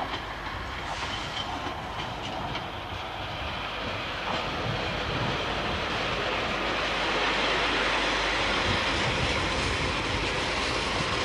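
A Pacer diesel railbus approaches along the track, its engine and wheel noise growing steadily louder, with a few clicks early on as the wheels cross rail joints.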